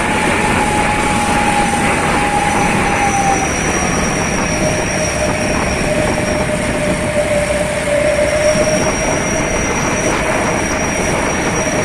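Motorcycle running at steady speed on the road, with loud engine, road and wind noise and a steady whine that steps down in pitch about three and a half seconds in.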